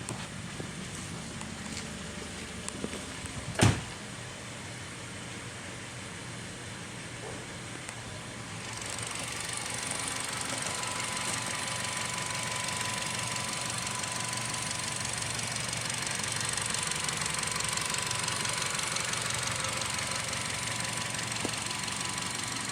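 Honda HR-V engine idling steadily after being revved, with one sharp click about three and a half seconds in. About nine seconds in, a steady hiss and a faint thin whine join the idle.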